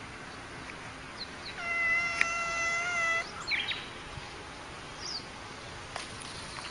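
Tabby cat giving one long meow of even pitch, about a second and a half long, starting a second or two in, with a few short high chirps before and after it.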